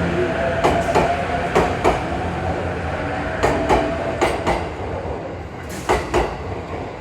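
JR East E257 series 5500 limited-express train rolling past, its wheels clacking over rail joints in pairs of sharp clicks (five pairs) over a steady running rumble.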